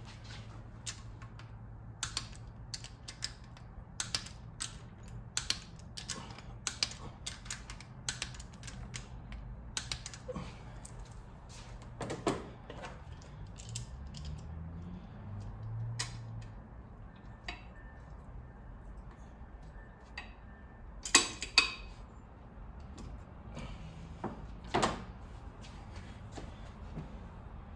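Hand socket ratchet clicking in short runs while working on the 3.8L V6's rocker arm bolts, followed by a few louder metal clanks of tools against the engine in the second half.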